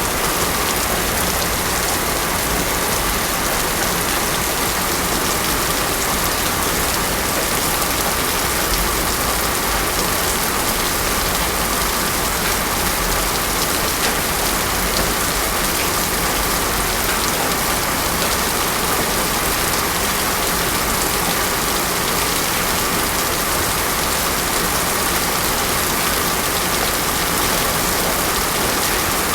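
Heavy rain pouring steadily, a dense even hiss with no thunder.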